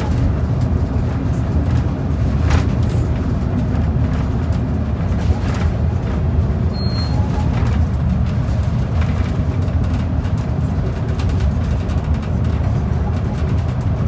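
Inside a moving transit bus: steady low rumble of engine and road noise, with a faint steady hum and a few light rattles.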